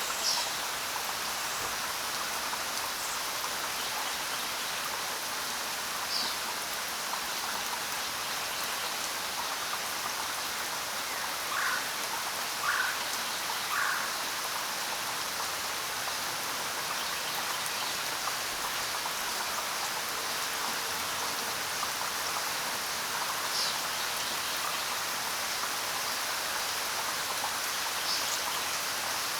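Steady rain falling, with a few short bird chirps scattered over it, including three notes about a second apart near the middle.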